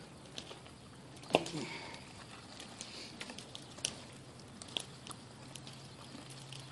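An animal feeding: scattered small crunches and clicks of biting and chewing, with one sharper click about a second and a half in, over a faint steady low hum.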